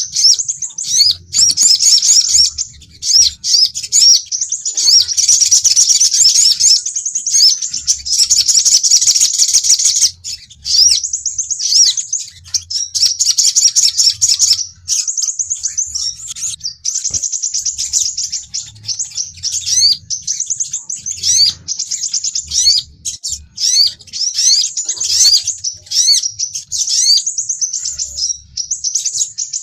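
Sunbirds calling, as played for a lure recording (pikat) of sogon and crimson sunbird (sepah raja) calls. Rapid, high-pitched chirps and quick down-slurred notes come in almost unbroken runs with short breaks.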